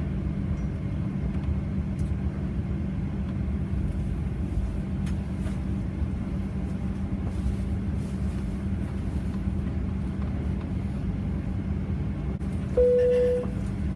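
Boeing 737-900ER cabin noise: a steady low rumble with a constant hum. Near the end a single loud tone sounds briefly and fades.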